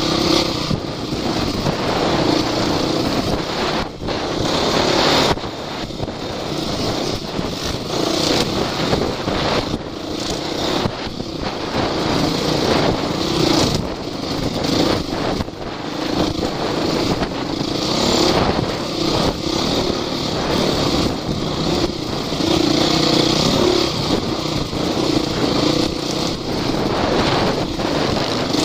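Off-road vehicle engine running under changing load, its pitch rising and falling, mixed with dense wind and jolting noise.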